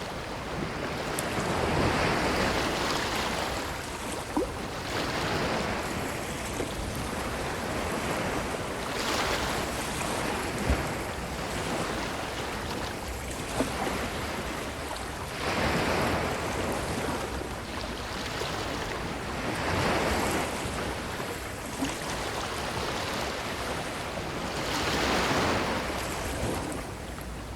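Ocean waves breaking and washing up a beach, the surf swelling and fading every four to six seconds. A few brief sharp clicks sound between the swells.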